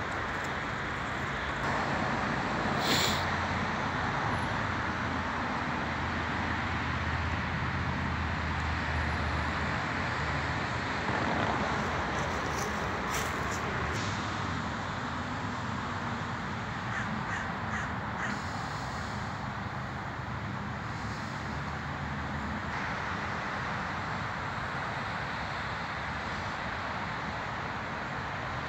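Birds cawing now and then over a steady outdoor background rush.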